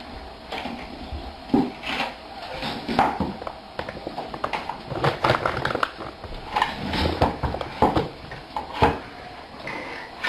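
A dog eating from a food bowl: irregular crunches, clicks and knocks.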